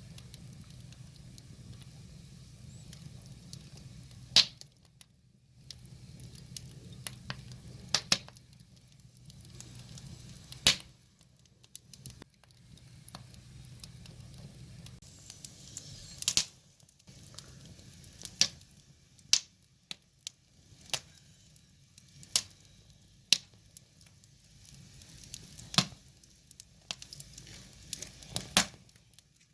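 Firewood burning, crackling and popping with sharp, irregular snaps over a soft hiss of flame. A faint steady low hum runs underneath.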